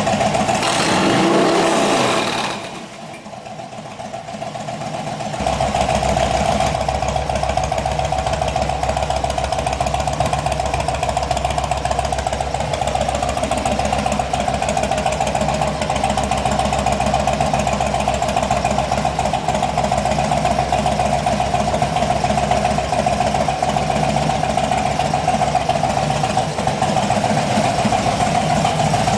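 Harley-Davidson FXDL Low Rider's V-twin running through a Bassani exhaust. It is blipped once at the start, drops back, and from about five seconds in settles into a steady, deep, pulsing idle.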